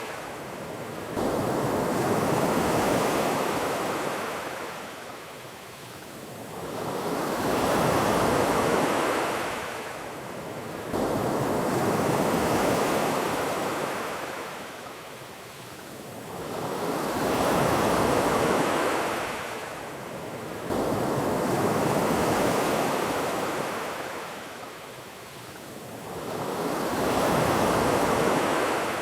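Ocean waves breaking and washing back in steady, regular surges, each about five seconds long.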